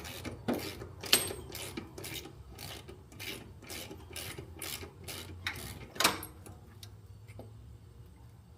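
Hand ratchet wrench rasping in quick, even strokes, about three a second, as a bolt is worked loose. The strokes stop with a louder one about six seconds in.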